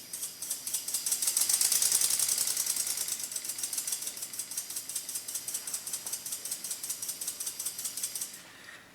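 Small homemade spool valve steam engine running on canned air: a fast, even train of hissing exhaust puffs and mechanical clicking that gradually fades and stops shortly before the end.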